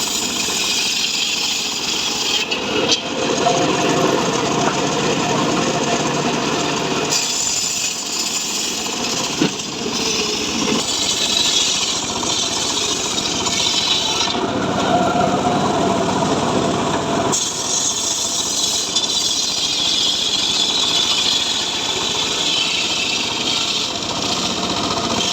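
Home-built powered sawmill cutting mahogany: a continuous loud sawing noise whose tone shifts abruptly several times as the blade works through the wood.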